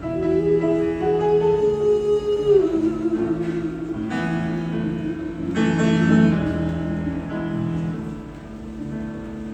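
Live band music with no words: a lead line of long held notes, the later one wavering, over sustained chords.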